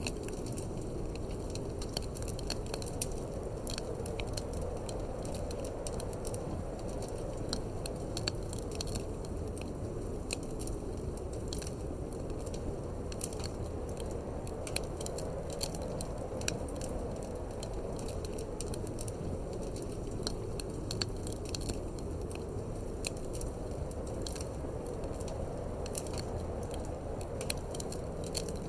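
Wood fire crackling in a fireplace, with irregular sharp pops and snaps, over a steady low rushing of wind.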